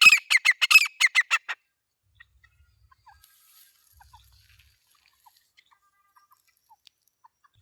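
Grey francolin calling: a loud, rapid run of repeated shrill notes that stops about a second and a half in, followed by faint scattered chirps.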